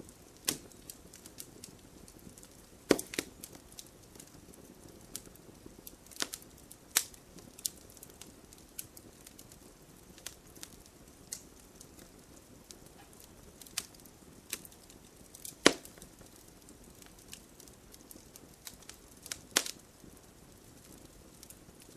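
Wood campfire crackling: irregular sharp pops and snaps over a faint steady hiss, with the loudest pops about three seconds in, about sixteen seconds in, and near the end.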